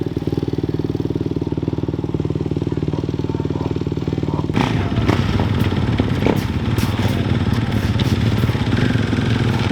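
Dirt bike engine running at low speed with an even, steady beat. About four and a half seconds in it turns louder and rougher, with several sharp knocks and clatter over it.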